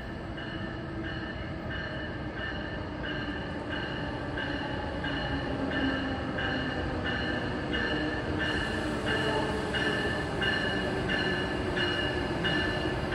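An approaching train, its low rumble growing steadily louder as it nears the platform. Throughout, a bell-like tone pulses evenly about three times a second.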